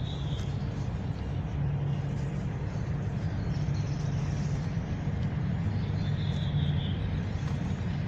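Steady low rumble of distant road traffic. A small bird chirps faintly at the start and again about six seconds in.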